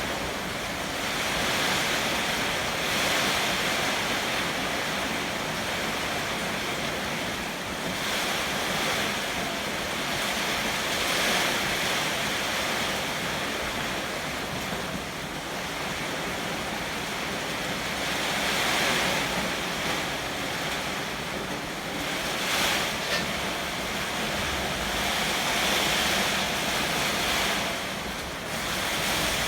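Heavy typhoon rain and strong wind, a dense steady hiss that rises and falls as the gusts come and go.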